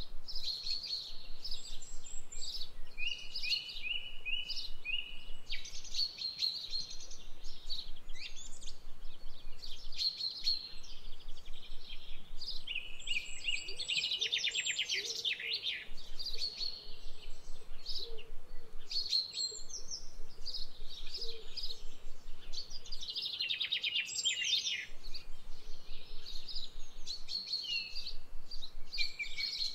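Several birds chirping and singing with calls overlapping, including a short run of even notes early on and rapid trills about halfway through and again near the end.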